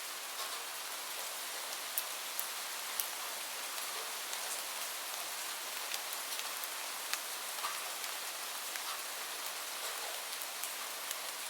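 Steady rain hissing, with scattered sharp pops from a crackling wood fire, about one a second and irregular.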